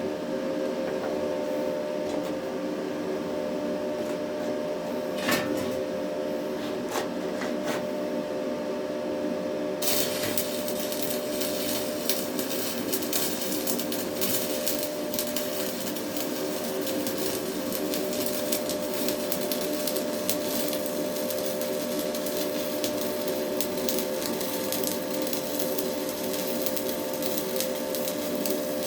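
Steady electrical hum, with a few clicks, then about ten seconds in an arc strikes and a stick-welding electrode (Hilco rod) crackles and sizzles continuously as a weld is run.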